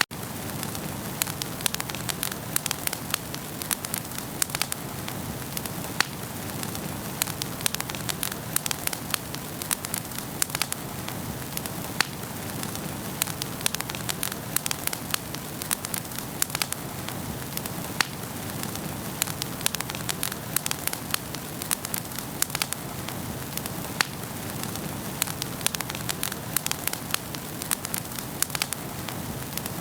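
Wood fire burning in a fireplace, crackling steadily with many sharp pops and snaps scattered irregularly over a soft rushing hiss of the flames.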